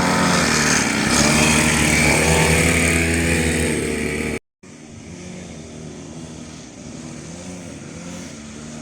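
110cc mini motocross bike engine running hard, its pitch wavering up and down. About four and a half seconds in the sound cuts off abruptly, then an engine is heard again, quieter and steadier.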